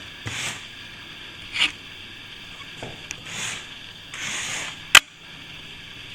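Hand plastering tool scraped across plaster in a few short strokes, with one sharp click about five seconds in.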